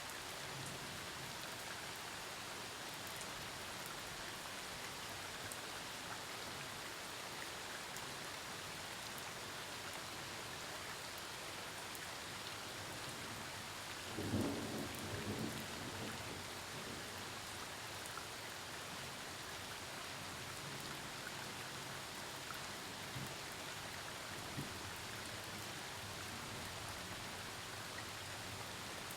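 Steady rain falling, with one short burst of thunder about halfway through.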